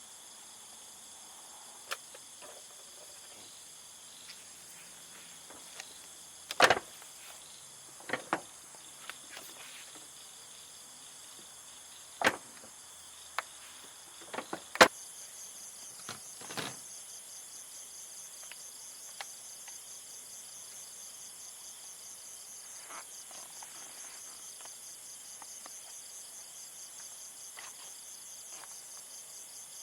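Insects, likely crickets, chirring steadily in several high-pitched bands; about halfway through the chorus grows louder with a fast pulsing trill. Scattered sharp knocks and clicks sound over it in the first half, the loudest about halfway through.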